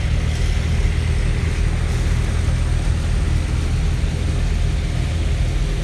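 Antique tractor engines running with a steady low rumble.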